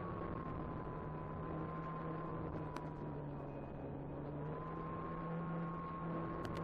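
Electric motor and propeller of an Apprentice 15e RC airplane running steadily in flight. A steady whine wavers slightly in pitch over a rush of wind noise.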